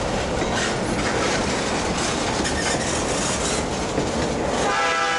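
Freight train tank cars rolling past close by, with a steady rumble of wheels on rail and repeated clicks over the rail joints. Near the end the rolling noise cuts off suddenly and a steady chord of held tones takes over.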